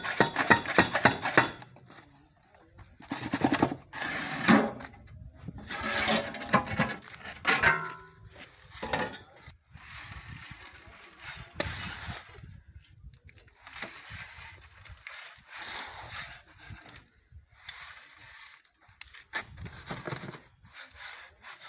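Damp cement and quarry-dust block mix being shovelled and thrown into a hand block mold, then stamped: irregular scrapes and knocks, busiest in the first half.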